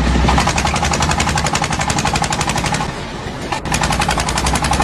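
Sound effect of a car engine sputtering and failing to run, as if out of petrol: a rapid, even rattle of pops over a low hum, which breaks off briefly about three and a half seconds in and then starts again.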